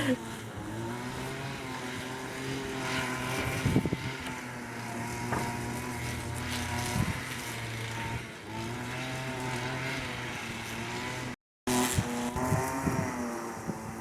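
Engine of a motor mower running steadily, its pitch wavering slightly. The sound breaks off for an instant about eleven seconds in, then goes on.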